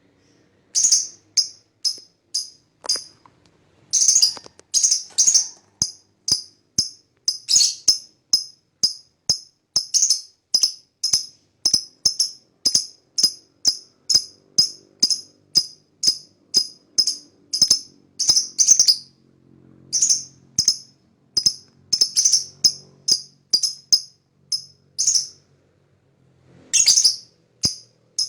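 Lovebird giving a long run of short, shrill calls, about two a second, in strings broken by brief pauses.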